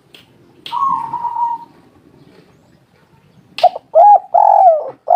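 Spotted dove cooing. A sharp click and one drawn-out, even coo come about a second in. After a pause and another click, a quick run of loud, arching coos starts about three and a half seconds in.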